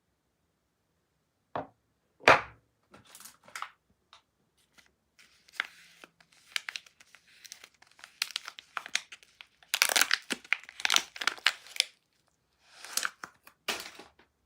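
Soap packaging being unwrapped by hand: two sharp knocks or snaps, the second the loudest, then bursts of crinkling and tearing of the wrapper, busiest past the middle and again near the end.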